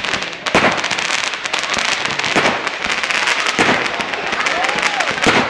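Fireworks going off in rapid succession: a dense run of crackling pops, with several louder bangs about a second or two apart.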